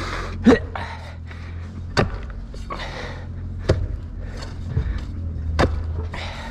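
Four sharp knocks, roughly one every one and a half to two seconds, over a steady low hum.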